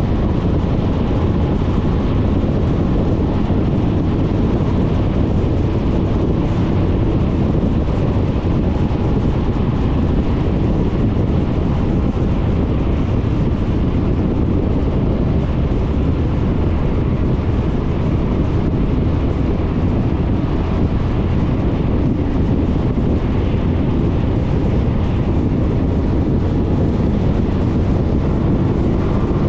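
Wind buffeting the microphone of a GoPro on a moving Suzuki Burgman 400 scooter, over the steady hum of its single-cylinder engine and tyres on the road.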